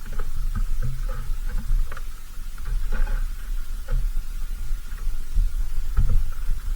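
Low, fluctuating rumble of wind on the microphone, with short, scattered bird chirps and a few light clicks at the feeder.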